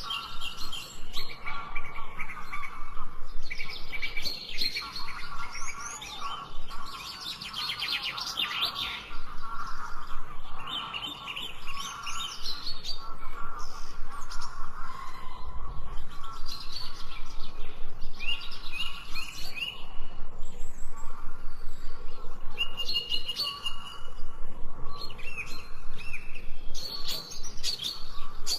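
Several birds singing and chirping together, with quick repeated chirps and short trills overlapping, and lower calls running underneath.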